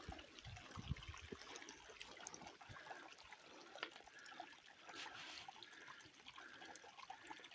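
Faint trickle of water running into a hot spring soaking pool, with small scattered drips and splashes.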